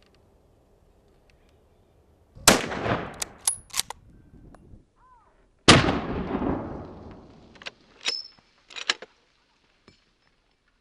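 Two rifle shots about three seconds apart, each ringing off in a long echo, followed by a few short, sharp metallic clicks and clinks.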